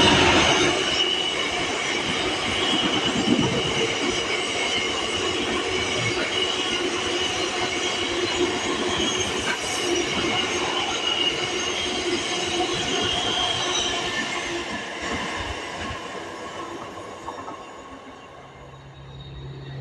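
Train running along the track with steady high-pitched wheel squeal over the rumble of the wheels on the rails, fading away near the end. Just before the end a low steady hum begins.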